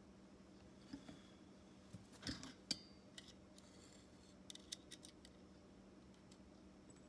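Faint, scattered clicks and short scrapes of small hard objects being handled, over a low steady hum.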